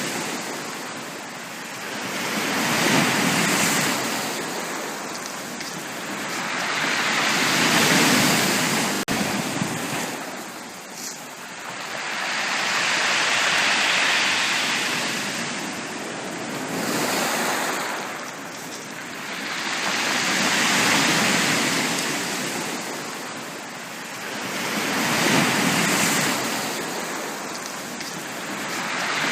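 Sea waves breaking on a beach. The surf swells and falls away in a slow rhythm, about one wave every five seconds.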